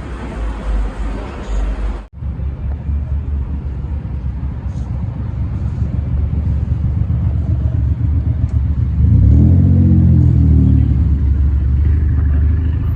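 Car engine idling with a deep exhaust rumble, revved up and back down once about nine seconds in.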